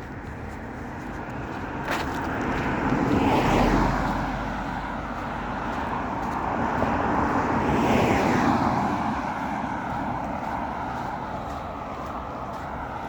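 Road traffic: two motor vehicles passing by one after the other, the first loudest about three and a half seconds in, the second about eight seconds in, each swelling up and fading away over a steady traffic hum.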